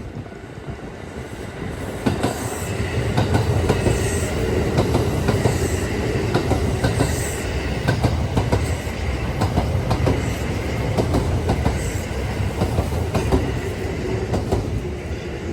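An eight-car Kintetsu electric train, an 8800 series set coupled to a 1021 series set, passing close by at speed. A rumble builds about two seconds in and holds, with the wheels clattering over the rail joints in a run of sharp clicks.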